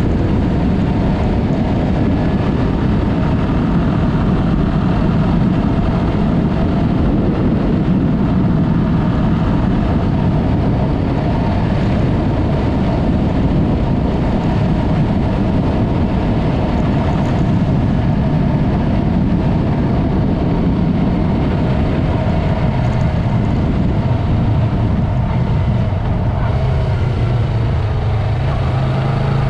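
Yamaha MT-03 parallel-twin with an aftermarket Mivv exhaust running steadily while riding, with a dense rush of wind and road noise. Near the end the engine settles into a steadier, lower note.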